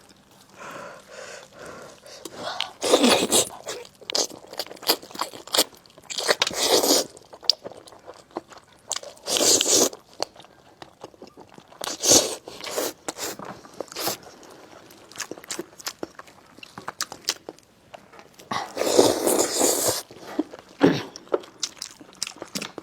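A person eating braised spicy lamb chops close to the microphone: bites and chewing in irregular bursts, with several louder bursts every few seconds.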